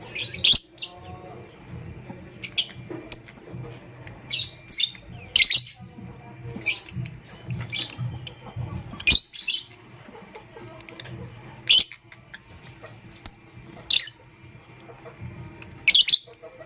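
Lovebird giving short, sharp, high chirps, singly and in quick pairs, at irregular intervals over a low background hum.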